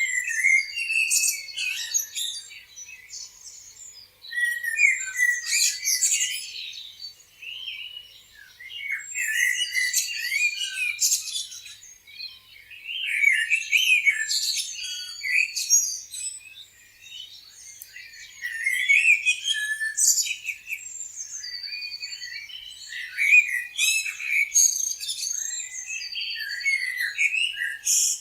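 Several songbirds chirping and singing at once, a busy chorus of quick high chirps, trills and short whistles that swells and eases in bouts every few seconds.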